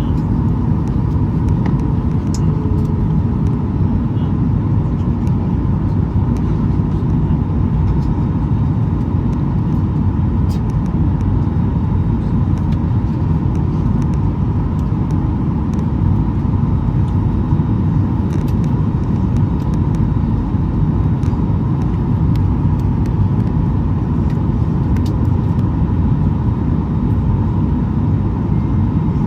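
Steady cabin noise of a Boeing 737-800 in flight: the low rumble of its CFM56 engines and the airflow past the fuselage, with a faint steady hum above it and a few faint ticks.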